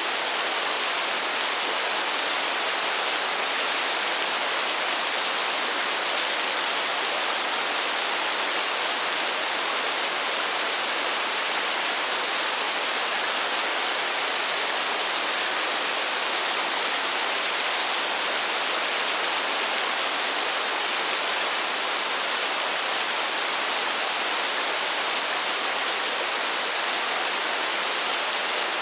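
Steady rain falling in a forest, a dense even hiss with no single drops standing out.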